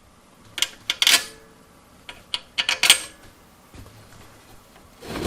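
Scattered metallic clinks and knocks from steel parts and hand tools being handled on a workbench: a few sharp clicks in the first second or so, then a quicker cluster a little before halfway.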